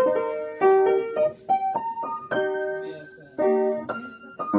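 Background piano music: a melody of struck notes in short phrases, each note ringing and fading.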